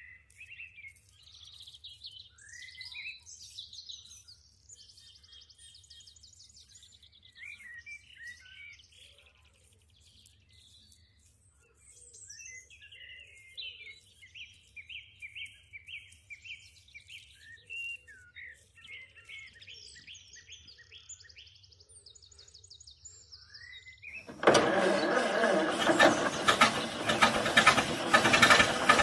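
Small birds chirping and trilling over a faint low hum. About 24 seconds in, a motor suddenly starts running loudly with a dense, rattling noise, typical of the small motor of a DIY mini tractor.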